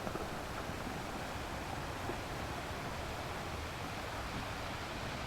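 Sea waves breaking and washing against rocks: a steady rush of surf with no single crash standing out.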